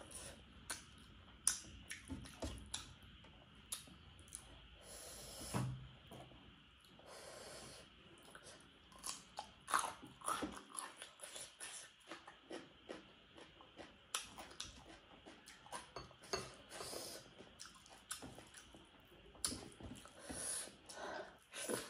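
Close-miked chewing and mouth smacking of a person eating pork with rice, with irregular wet clicks and smacks several times a second.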